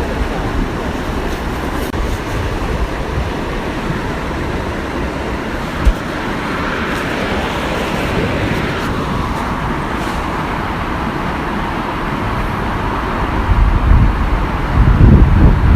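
Steady rushing of a small waterfall. A single low knock about six seconds in, and wind buffeting the microphone in heavy low gusts near the end.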